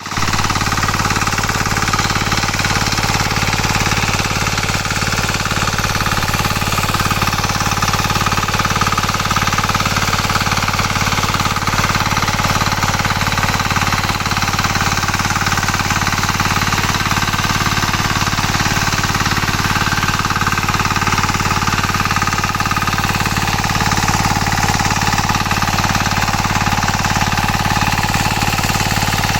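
A 9 hp Kama single-cylinder engine on a power tiller running steadily at a constant speed, with a loud, even, pulsing beat.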